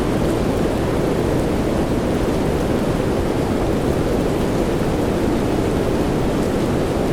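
Soft rain ambience for sleep: a steady, dark rush of noise, heavier in the low middle than in the highs, with no breaks or changes.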